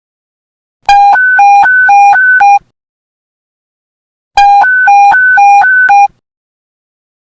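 Police panic-button alert sounding twice: two loud bursts of an electronic two-tone beep, each a quick alternation of a low and a high tone lasting nearly two seconds, with a pause of about two seconds between them.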